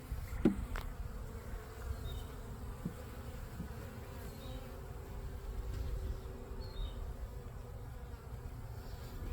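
Honey bees buzzing around an open hive as frames from a nuc are handled, a steady hum with a couple of short knocks about half a second in.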